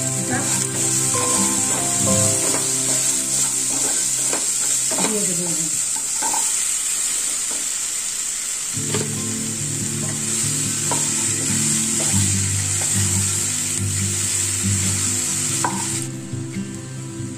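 Potatoes, onions, brinjal and pumpkin sizzling in hot mustard oil in a kadai, stirred and scraped with a wooden spatula in short ticks. The sizzle cuts off near the end.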